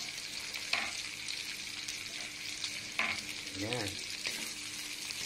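Garlic, onion, ginger, bay leaves and black pepper sizzling steadily in rendered pork fat in a wok, stirred with a wooden spatula. The spatula knocks against the pan twice, about a second in and about three seconds in.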